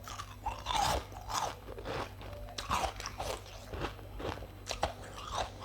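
A person biting and chewing ice close to the microphone: irregular sharp crunches, several a second.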